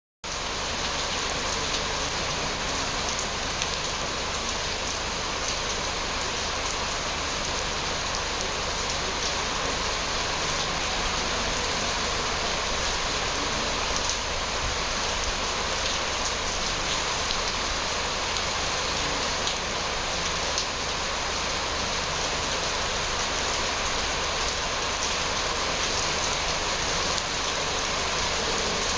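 Steady rain falling on a surface, a dense even hiss with many small drop ticks throughout.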